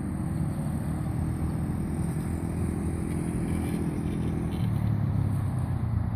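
Dirt bike engines running as the bikes are ridden, a steady buzz that grows a little louder about four and a half seconds in.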